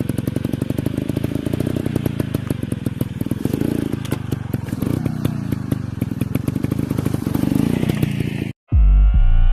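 Dirt bike engine running with a rapid, continuous firing pulse and some clatter, its pitch shifting a little as the throttle changes. Near the end it cuts off abruptly, and loud electronic music with a heavy bass beat starts.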